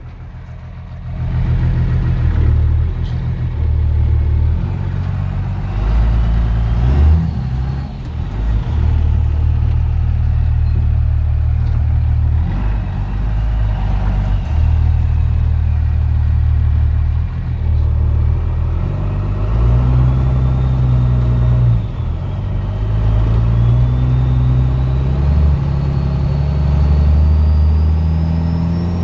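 Stock 12-valve Cummins turbo diesel straight-six pulling the truck down the road, its low note stepping up and down as it accelerates and the automatic shifts. A faint high whine rises and falls above it, climbing steadily near the end.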